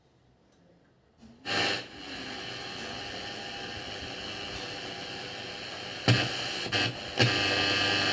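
Restored Philips valve-era table radio hissing with static between stations as it is tuned. The static comes on suddenly about a second and a half in, with a few sharp clicks about six to seven seconds in.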